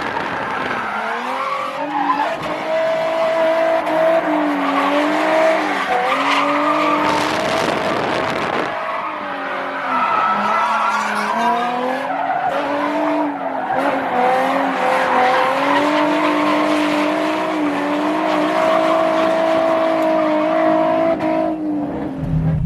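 Drift car's engine revving hard and rising and falling in pitch again and again, with its tyres squealing and skidding as it slides through a run. The engine note drops away near the end.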